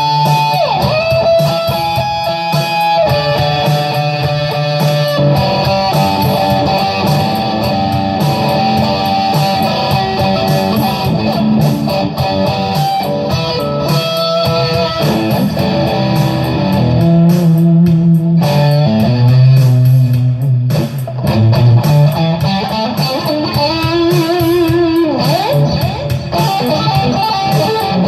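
Electric guitar playing improvised lead lines: a run of single sustained notes with a few bent or slid notes.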